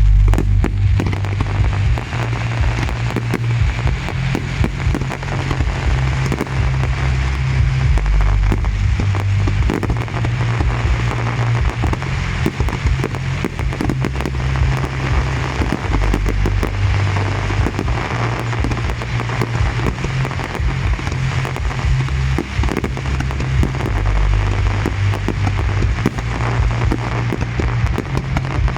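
A fireworks display, with shells bursting and crackling in quick succession for the whole stretch. Music with a heavy bass line plays underneath.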